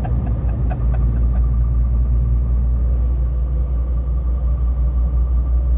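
Heavy truck's diesel engine and road noise heard inside the cab while driving: a steady low rumble with a faint high whine. A quick ticking, about five a second, fades out in the first second and a half.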